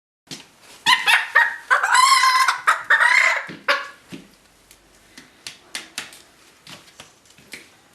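A small Cochin hen calling excitedly over her food: a rapid run of wavering, warbling calls for the first few seconds. After that it drops quieter, with scattered short clicks.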